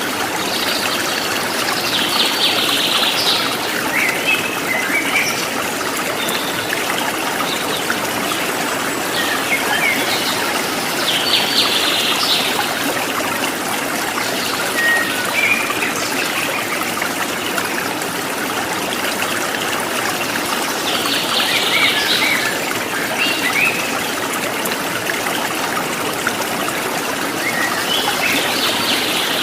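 Stream water running and trickling steadily, with a bird singing short bursts of chirping phrases about every nine to ten seconds, four times.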